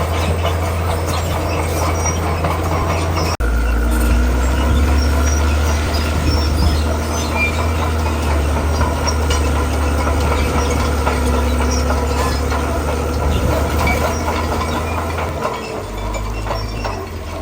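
Heavy diesel earthmoving machinery working: a crawler bulldozer's engine runs steadily under load with clanking and rattling from its tracks and the rock. The sound shifts abruptly about three seconds in, and the engine note changes again near the end.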